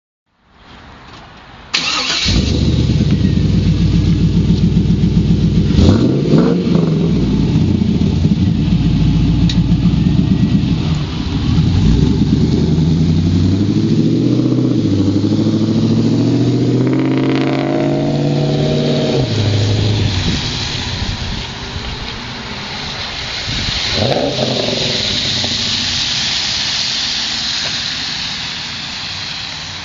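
Camaro's LS1 5.7-litre V8 breathing through long-tube headers, an off-road Y-pipe and a Loudmouth II catback: cranks briefly, fires up about two seconds in and settles into a loud idle. It is blipped a couple of times, revved up in one long climb that falls back to idle, then blipped once more near the end.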